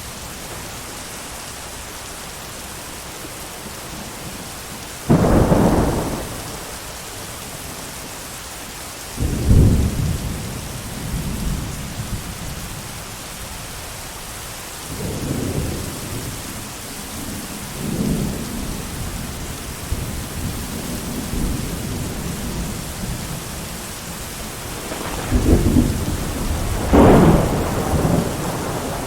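Steady heavy rain with several rolls of thunder rumbling through it, the loudest about five seconds in and again near the end.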